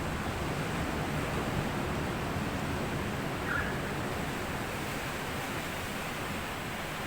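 Small waves washing up onto a sandy beach: a steady rush of surf that swells a little and then eases.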